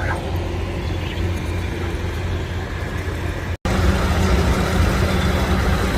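Tractor engine running steadily as a low rumble. It cuts out for an instant about three and a half seconds in, then returns slightly louder with a steady hum.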